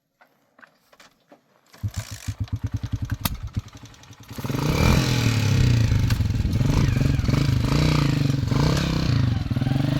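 Motorcycle engine being started: it turns over in quick even pulses for about two seconds, then catches about four seconds in and keeps running, its pitch rising and falling as it is revved.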